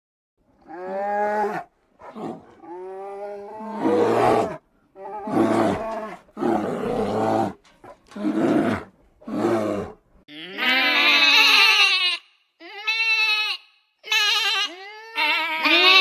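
An animal calling again and again, each call about a second long with short pauses between. Deeper calls come first; from about ten seconds in, the calls are higher-pitched.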